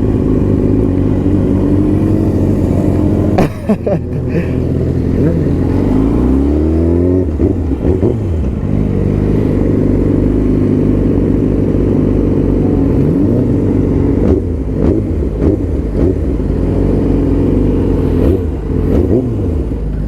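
Sport motorcycle engine running while riding, heard from the bike. Its pitch climbs steeply as it accelerates about a third of the way in, then settles to a steady run with a few shorter rises later.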